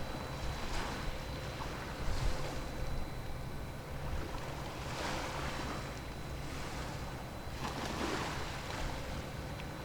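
Small waves washing in every few seconds, each a soft swell of noise, over a steady low rumble.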